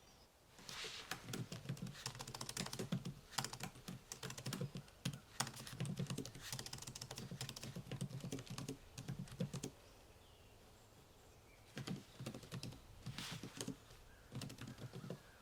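Typing on a computer keyboard: a long run of quick keystrokes, a pause of about two seconds, then two shorter runs near the end.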